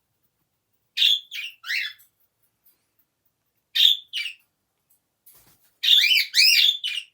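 Pet bird calling loudly. Short sharp chirps come in small groups, then turn into a rapid run of rising-and-falling chirps near the end.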